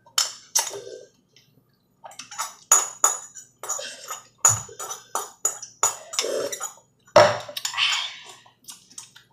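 Eating utensils clinking against a dish in quick, irregular strikes, a few of them with a short high ring.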